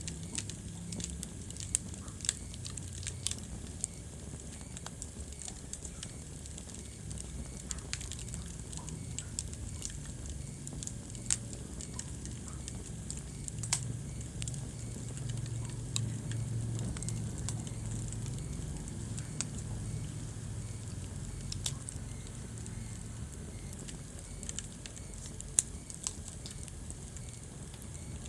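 Wood fire burning in a fireplace: a steady low rumble of flames with frequent crackles and scattered sharper pops.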